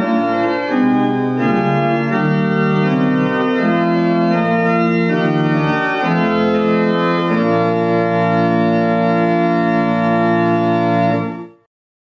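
Organ music: slow, sustained chords that change every second or two, cut off abruptly near the end.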